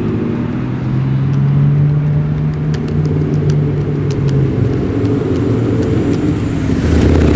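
Car engines running at low revs as cars roll slowly past, a steady low exhaust drone, with a few light ticks in the middle.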